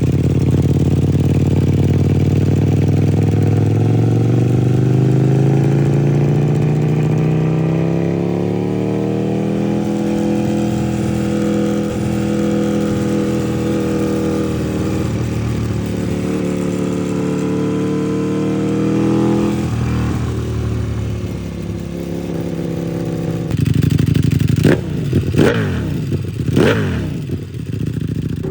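Ducati Panigale V4 R's V4 engine through a Termignoni four-outlet exhaust. The engine note climbs slowly for about ten seconds, holds, then falls away, and near the end the throttle is blipped sharply three or four times in quick succession.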